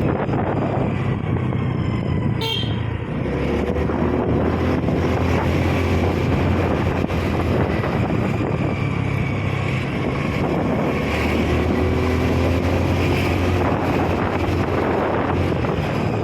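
A motor vehicle's engine running steadily while driving, with road and wind noise. There is a short high chirp about two and a half seconds in.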